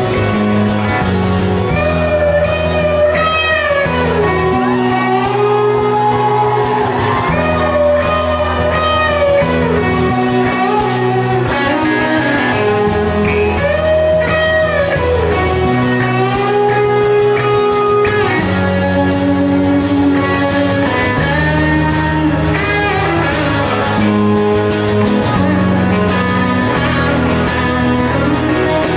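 Live rock band playing an instrumental passage: a guitar carries a melody with bending, sliding notes over sustained bass notes that change every couple of seconds.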